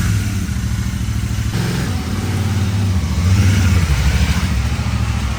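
Motorcycle engine running. Its note shifts about a second and a half in and rises briefly a little past three seconds.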